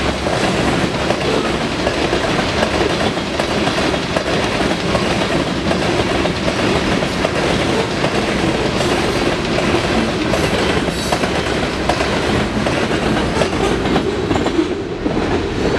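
Loaded covered hopper cars of a freight train rolling past at speed, steel wheels clacking on the rails in a steady, continuous din. The tail car passes shortly before the end and the highest part of the sound thins out.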